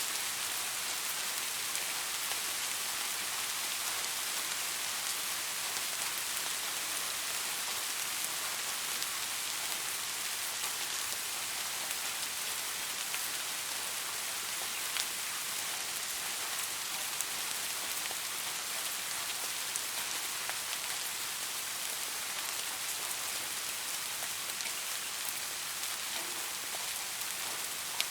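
Steady rain falling, an even hiss with many small drop ticks and now and then a slightly louder single drop.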